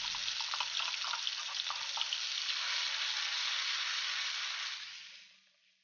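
Blended chili, shallot and garlic paste sizzling in hot oil in a stainless steel wok, with light clicks and scrapes of a metal spatula in the first couple of seconds. The sizzle fades away near the end.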